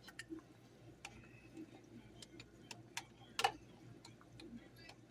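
Scattered faint clicks and light clinks of kitchen utensils and glass canning jars being handled, irregularly spaced, with a sharper click about three and a half seconds in.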